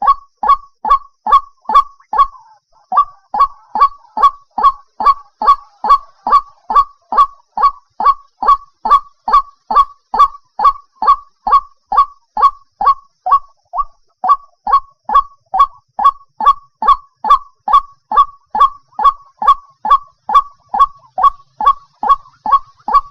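White-breasted waterhen (chim cuốc) calling: a steady, loud run of short downward-slurred 'kwok' notes, about two and a half a second. There is a brief break about two seconds in and another near the middle. It is a recorded call of the kind played as a lure for night bird-trapping.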